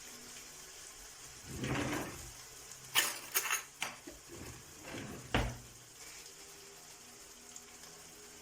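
Cooking sounds at a pot: a brief rush of water, then a few sharp clinks and knocks of a utensil against cookware.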